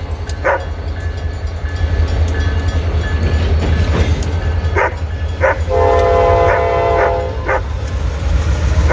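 Diesel freight train passing close by with a steady low rumble. About six seconds in, the locomotive's air horn sounds one chord of several notes for about a second and a half.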